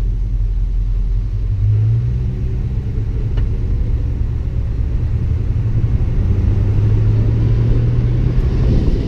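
Classic car's engine running with a deep, steady rumble as the car pulls away and drives along, heard from a camera mounted on its hood. The engine note swells a little about two seconds in and again in the second half.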